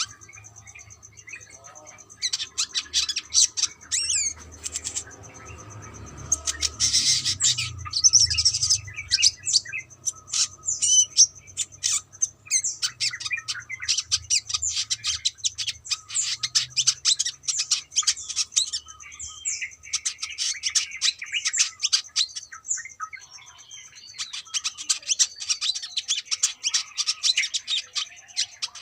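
Brown-throated sunbird singing: rapid, high twittering chirps and trills in bursts, with brief pauses between them.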